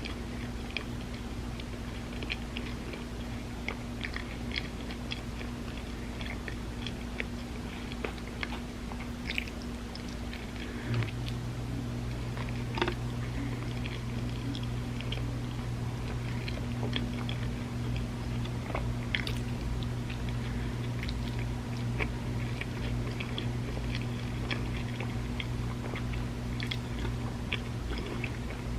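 A person chewing and biting loaded avocado toast close to the microphone, with many short crunches and wet clicks, over a steady low hum that grows louder about 11 seconds in.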